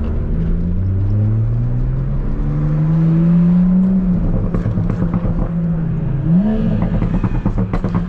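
Tuned MK5 Toyota Supra's B58 turbocharged inline-six pulling hard. The engine note climbs steadily for about four seconds, then breaks with a brief run of crackles before climbing again and holding steady.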